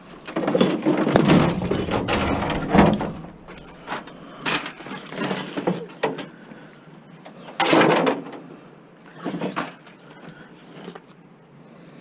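Plastic TV casing and parts being handled and pried apart: a clatter of knocks in the first few seconds, then a few separate bangs and cracks, the loudest about eight seconds in.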